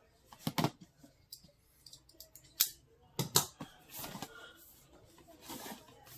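Cardboard and plastic packaging being handled as a product box is opened: a string of sharp clicks, taps and short scraping rustles, the loudest a single click about two and a half seconds in and a double click about a second later.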